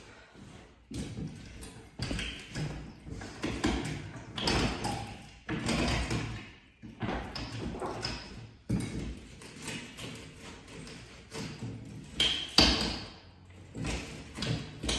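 Painted wooden trim being pried off a plaster wall: irregular knocks, taps and scraping from the pry tool and the wood. The loudest sharp knock comes near the end.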